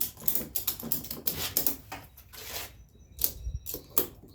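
Ratchet strap being cranked tight: a run of sharp, irregular clicks from the ratchet mechanism, with a short pause about three seconds in, as the strap draws a warped door's loose panels together.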